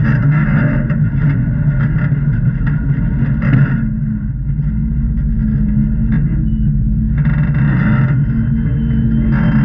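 Jeep engine running at low revs, steady underneath, with rougher, louder spells through the first four seconds, again about three-quarters of the way in, and briefly near the end.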